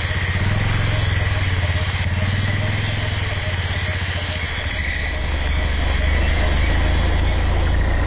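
Motorcycle engine running under way, a steady low rumble that grows a little louder about five seconds in.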